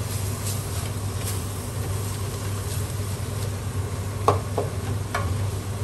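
Chopped garlic and ginger sizzling in oil in a large stainless steel stockpot while a wooden spatula stirs them. A few knocks and scrapes of the spatula against the pot come a little past four seconds in, the first the loudest.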